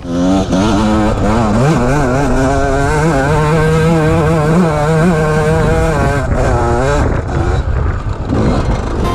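Enduro dirt bike engine revving hard, its pitch rising and falling quickly over and over; the engine note breaks off about seven seconds in.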